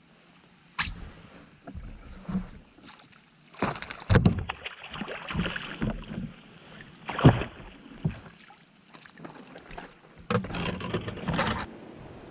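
Irregular knocks, thumps and scraping on a fishing kayak as a just-caught pike is brought in and handled. The sharpest knocks come about a second in and again around seven seconds in.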